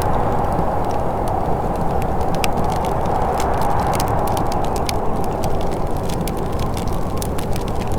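Wood fire in a fireplace crackling, with many sharp, irregular pops and snaps over a steady low rushing sound.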